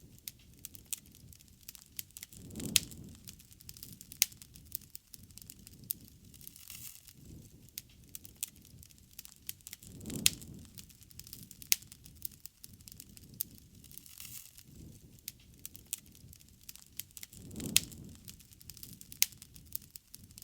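Wood bonfire crackling, with frequent sharp snaps and pops of burning wood. A soft low whoosh swells up three times, about every seven to eight seconds.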